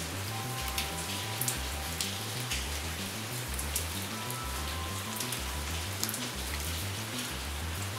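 Steady rain with many separate drops ticking, over soft calm music: a low repeating bass pattern and a few held notes.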